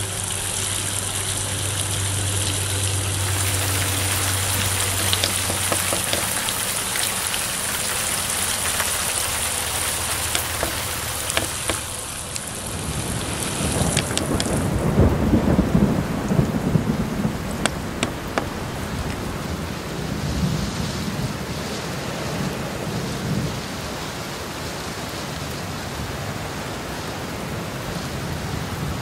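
Water pouring steadily onto a flood model's hard surface with a low steady hum, as a simulated downpour. About twelve seconds in this gives way to heavy rain with thunder rumbling in long swells.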